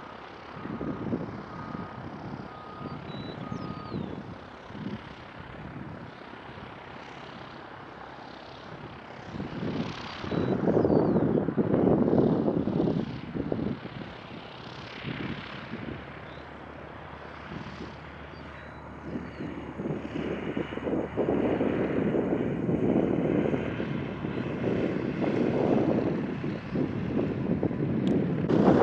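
Small propeller airplane's piston engine running, swelling louder about ten seconds in and again through the last third.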